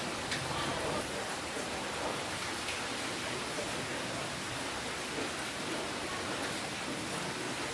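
Steady rainfall: an even hiss of rain with a few distinct drops ticking on a surface.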